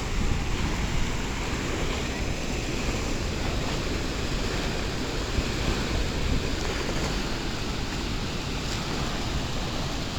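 Steady rushing noise of wind buffeting the microphone and moving water, with no other sound standing out.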